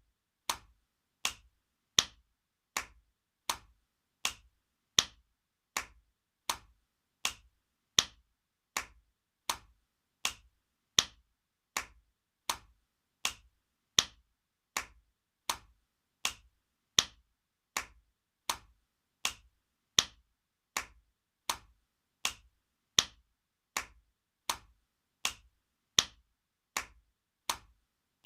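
Spanking sound effect: a sharp open-hand slap repeated at an even pace, a little more than once a second, each dying away fast with silence between and some slaps louder than others.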